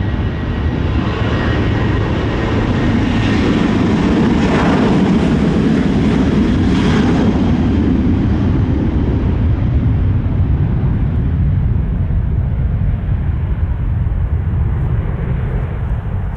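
Jet airliner departing on its takeoff run and climb, its engines at takeoff thrust. The engine noise grows to its loudest a few seconds in, then fades and dulls as the aircraft moves away.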